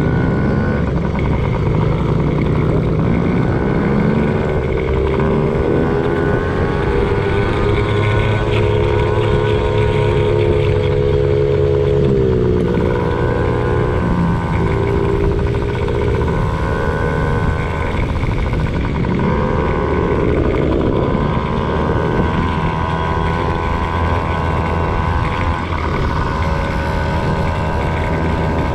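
Motocross bike engine running hard, its pitch rising and falling again and again as the throttle opens and closes and gears change, with a sharp drop about twelve seconds in.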